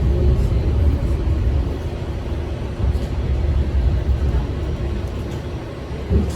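New York City subway train running along the track: a steady low rumble with faint clicks, dipping slightly near the end.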